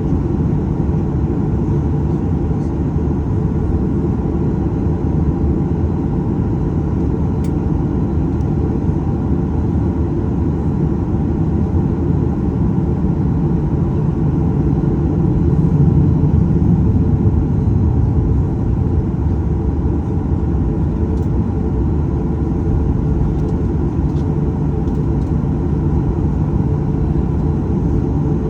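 Steady low rumble heard inside the cabin of a Boeing 737-800 with its CFM56-7B turbofan engines running, swelling slightly about halfway through.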